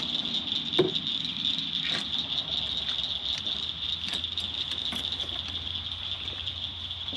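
Steady high-pitched night insect chorus over a low hum, with scattered clicks and knocks, the loudest about a second in.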